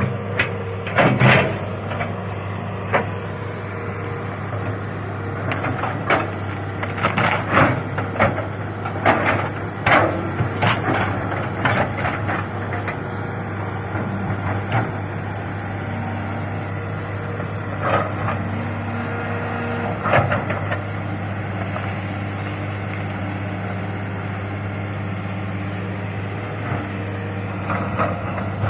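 Excavator's diesel engine running steadily under load, with a string of sharp cracks and knocks, many in the first half and a few more later, typical of wood snapping and the bucket striking during land clearing.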